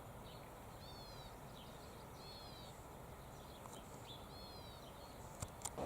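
A bird calling three times, each a short high note curving downward, over a faint steady background hiss, with two sharp clicks near the end.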